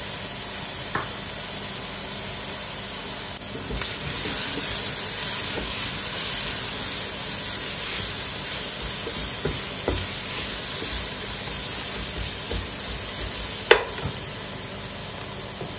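Vegetables frying in olive oil in a pan on high heat: a steady sizzle with a spoon stirring, a few light clicks against the pan and one sharper knock near the end.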